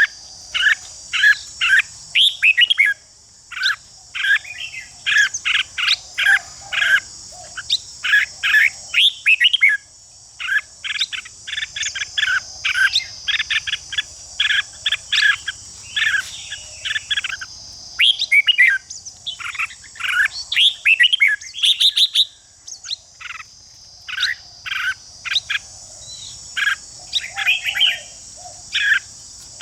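Red-whiskered bulbuls singing and chattering in quick runs of short, sharp notes, phrase after phrase with brief pauses, as in competitive singing. A steady high insect-like drone runs underneath.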